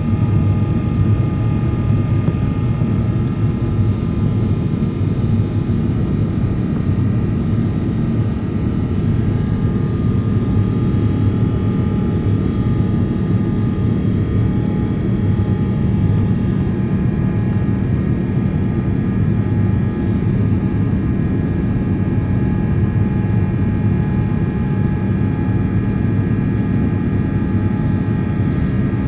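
Airliner jet engine heard from inside the passenger cabin, a steady, loud roar with several steady whining tones above it.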